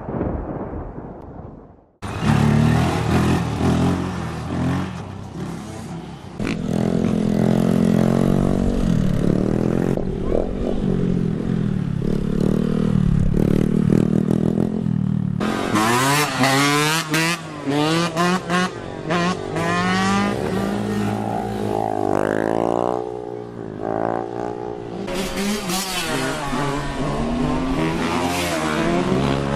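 A rumble of thunder fades out, then after a sudden cut motorcycle engines run, with repeated quick revs rising and falling in pitch through the second half.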